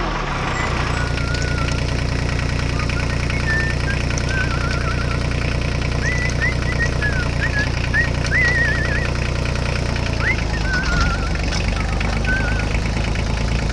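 A tractor engine running steadily at idle, with birds chirping over it.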